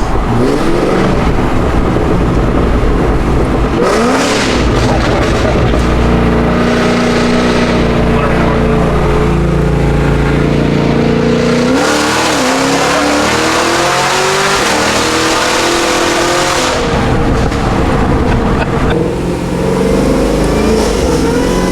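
Cadillac Escalade-V with a built supercharged LT4 V8, new heads and cam, accelerating hard. The engine note climbs in pitch, drops at each upshift (about four, twelve and seventeen seconds in), then climbs again near the end.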